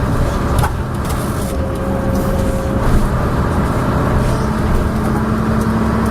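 Leyland Atlantean double-decker bus heard from on board: the diesel engine runs with a steady low hum under loud clanking and rattling from the body, with a few sharp knocks.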